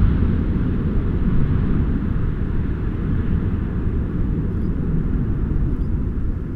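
Four General Electric CF6 engines of a Boeing 747-400F freighter at takeoff power, a deep rumble that fades slowly as the jet climbs away.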